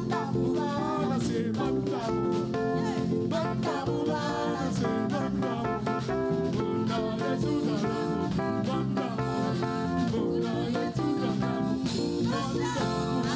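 Live gospel praise music: a church band with guitar and drums plays a steady beat while voices sing.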